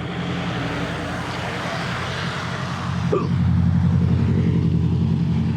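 A motor vehicle's engine running with a steady low hum, over a broad hiss that fades about three seconds in as the engine grows louder.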